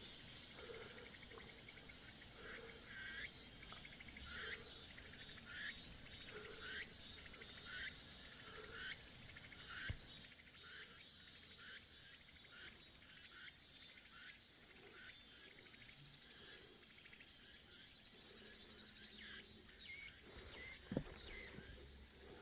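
Faint chorus of summer insects: a steady high buzz, with a short falling chirp repeated about once a second through the first half. Two sharp taps come, one midway and one near the end.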